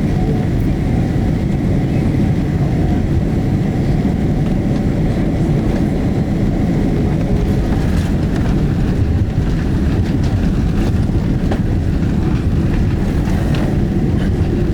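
Cabin noise of a Boeing 767-300 rolling on the runway after landing: a steady low rumble from the wheels and engines, with a few faint knocks.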